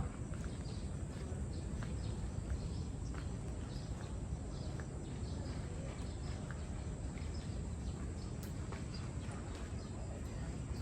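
Footsteps on a hard path, about two a second, over a steady low rumble of ocean surf and wind.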